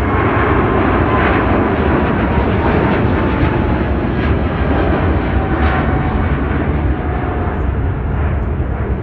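Jet airliner passing close by: loud, steady engine noise with a whine that slowly falls in pitch.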